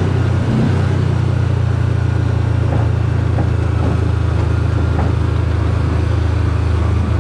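Side-by-side UTV engine running steadily at cruising speed, a constant low drone, with a few light knocks and rattles from the vehicle.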